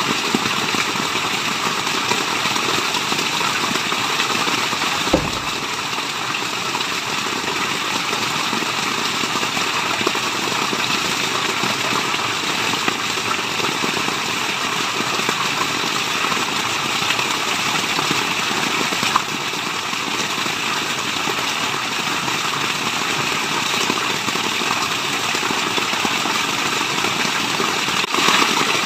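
Steady rushing of falling water, an even hiss that does not change. A brief click comes about five seconds in, with fainter ones later.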